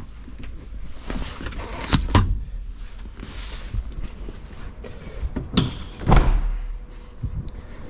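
Truck doors being opened and shut: a few clunks and thuds, the loudest about six seconds in, over a low rumble.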